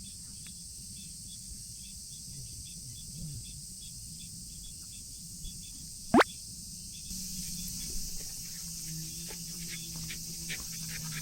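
Steady high insect chirring in summer outdoor ambience. About six seconds in comes one short, loud, quickly rising whistle-like squeak.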